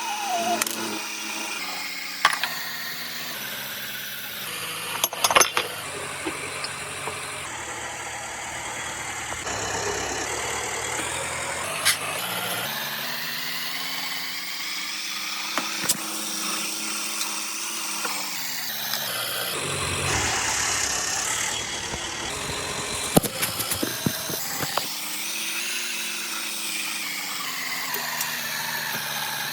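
A Volkswagen Polo's engine running, its pitch slowly rising and falling twice as the revs are raised and lowered, with scattered sharp clicks and knocks.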